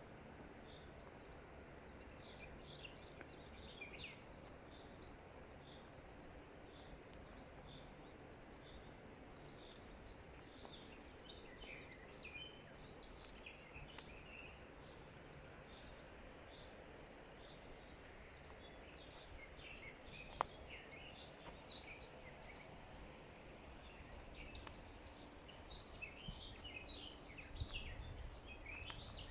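Forest birds chirping and twittering over a faint steady background hiss, the calls thickest near the middle and towards the end, with one sharp click about two-thirds of the way through.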